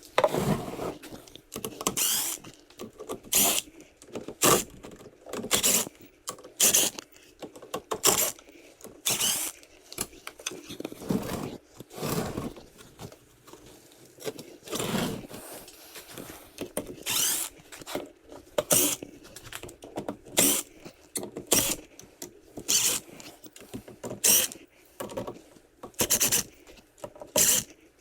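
Repeated scraping and rubbing, in irregular strokes roughly once a second, as form pieces are worked free from a freshly cast perlite hibachi grill body.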